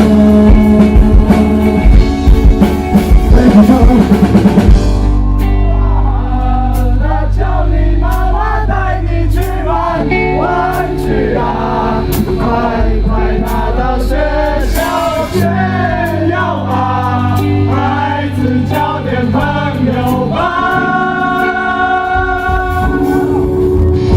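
Rock band playing with singing. Drums and full band for the first few seconds, then the drums drop out and voices sing over held bass notes, with the drums coming back in near the end.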